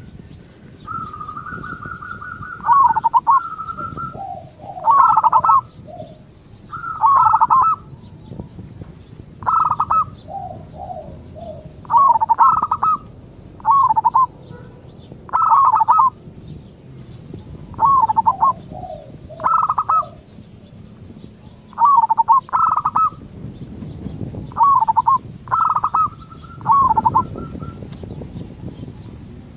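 Zebra dove (perkutut) cooing, repeating short coo phrases every one to two seconds. A long, level rolling note comes near the start and again near the end.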